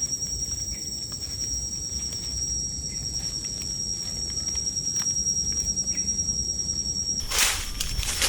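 A steady, high-pitched insect drone, likely cicadas or crickets, runs for about seven seconds. Near the end, rustling and crunching noises begin and the drone cuts off.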